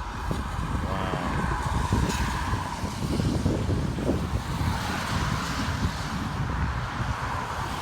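Steady rumble of road traffic crossing the bridge.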